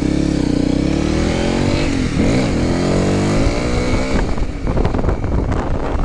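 Honda CRF300L's single-cylinder four-stroke engine accelerating away from a stop. The pitch climbs, drops at a gear change about two seconds in, and climbs again through the next gear.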